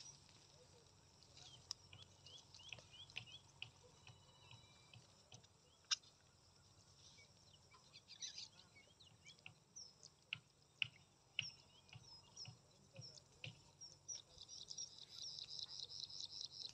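Faint bird chirps and short calls, with a fast run of repeated high notes in the last few seconds. A few sharp clicks, the loudest about six seconds in.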